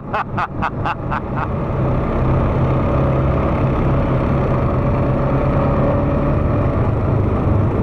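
ATV engine running steadily under throttle while riding. About a dozen quick clicks or knocks come in the first second and a half.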